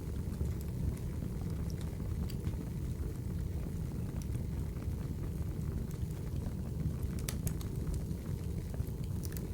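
Wood fire ambience (ASMR fire track): a steady low rumble of burning logs with scattered sharp crackles, a few bunched about seven seconds in and again near the end.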